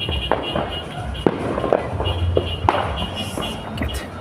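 New Year fireworks and firecrackers going off: an irregular run of sharp cracks and pops, the loudest about a second in.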